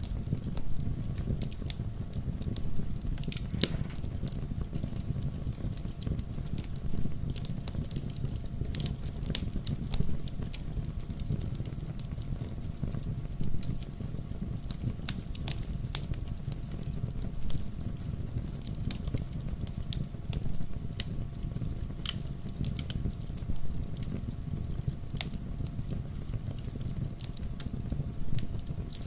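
Fireplace fire crackling: irregular sharp pops and snaps over a steady low rush of flames.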